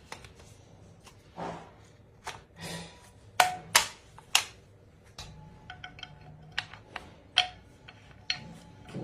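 Irregular metallic clinks and knocks, a dozen or so sharp hits, some leaving a brief ring, the loudest in a quick cluster a few seconds in, like metal tools or parts being handled and set down.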